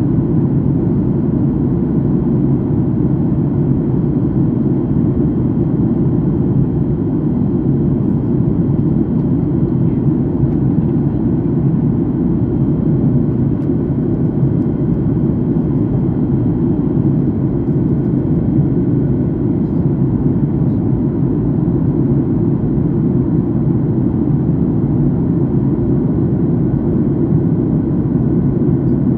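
Steady jet airliner cabin noise in flight: an even, unbroken rush of engine and airflow noise, heaviest in the low range.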